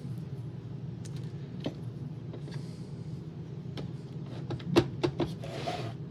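Scattered clicks and knocks of hard plastic Roomba parts being handled and picked clean, with a short scraping sound near the end, over a steady low hum.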